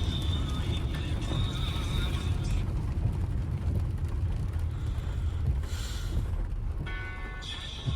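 Steady low rumble of a car's engine and tyres heard from inside the moving car on a wet road. A thin high tone comes in at the start and again near the end, and a short hiss passes about six seconds in.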